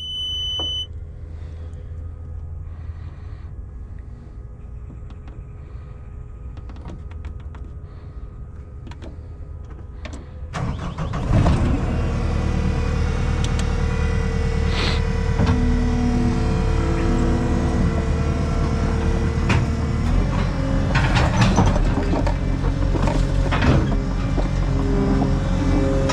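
Skid steer diesel engine idling, heard from inside the cab; a warning beep stops just after the start. About ten seconds in, the engine is throttled up and runs loud under work, with a hydraulic whine that changes pitch in steps and occasional knocks.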